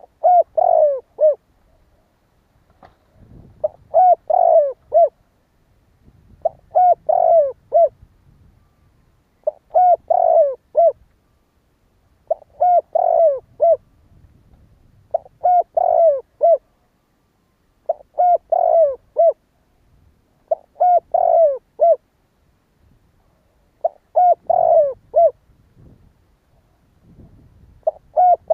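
Spotted dove cooing its song: a short phrase of several coo notes, repeated about every three seconds, roughly nine times.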